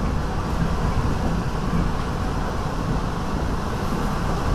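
Steady running noise of an NJ Transit Comet IV passenger car rolling at speed, heard from inside the car: an even rumble of wheels on rail with no horn or distinct clicks.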